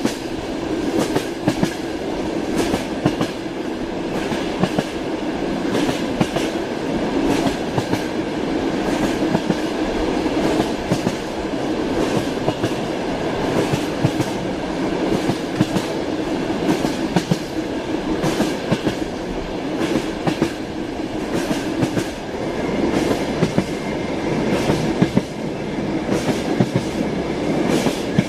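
Moving train: wheels clattering over rail joints, a steady running rumble broken by repeated sharp clacks.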